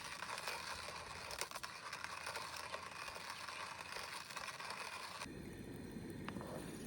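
Hissing, scraping noise with scattered clicks and rattles. About five seconds in it cuts suddenly to insects chirring steadily over a low rumble.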